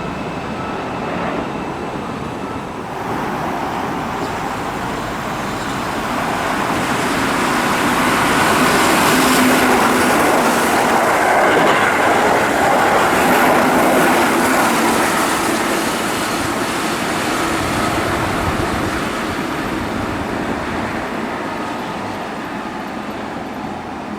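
Keihan 8000 series electric train passing at speed: the rumble builds, is loudest in the middle, then fades away.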